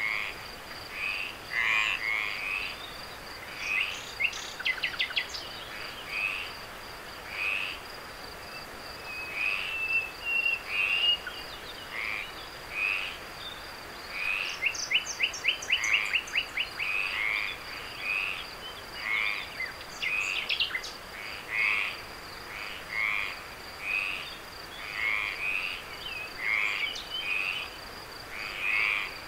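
Night chorus of frogs croaking, short calls following one another about once a second, over a steady high insect trill. Twice, a rapid run of clicking calls cuts in.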